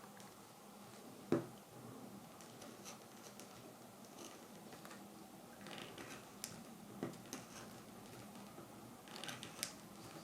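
Knife tip scoring fine lines into wild cherry wood: faint short scratches in small clusters, with one sharp tap a little over a second in.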